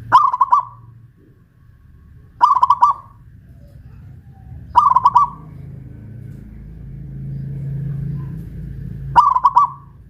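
Zebra dove (perkutut) singing: four short rolling coos, each under a second long, spaced a few seconds apart, with a longer gap before the last.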